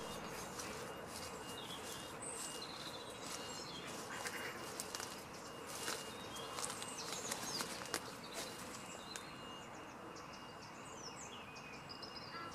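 Small birds chirping and calling over a steady hiss of outdoor background noise, with scattered faint clicks.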